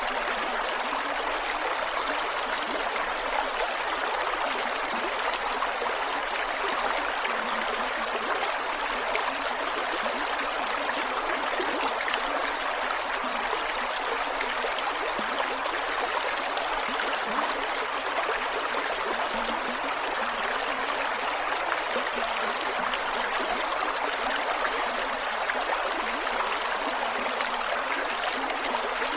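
Creek water flowing over rocks, a steady rushing with small gurgles and trickles throughout.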